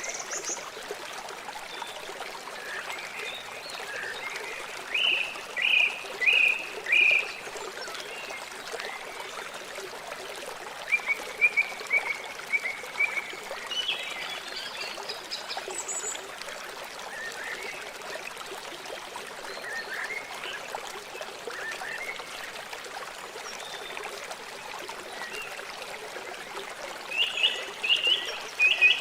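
River water flowing steadily, a constant rushing. Over it, short animal calls come in quick runs of three or four notes, several times; these are the loudest sounds.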